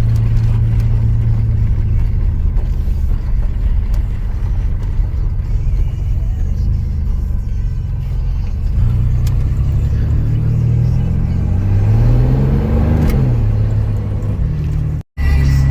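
Chevy S10's 4.3 liter V6 running steadily, then revved once about twelve seconds in, its pitch rising and falling back. The engine runs rough and has a blown head gasket.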